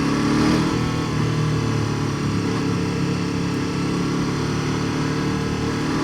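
KTM 1290 Super Duke R Evo's V-twin engine running through its Akrapovic exhaust, holding a fairly steady pitch that climbs slightly near the end.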